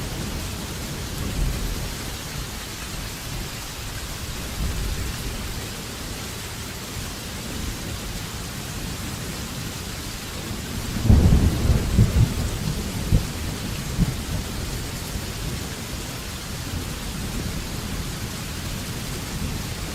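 Thunderstorm: steady heavy rain hiss with low thunder rumbling throughout, and a louder, crackling roll of thunder about halfway through that rumbles on for a few seconds before fading back into the rain.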